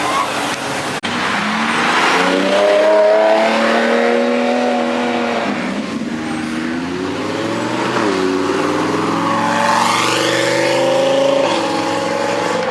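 Sports car engines revving and accelerating, their pitch rising and falling several times as the cars pull away and shift gears.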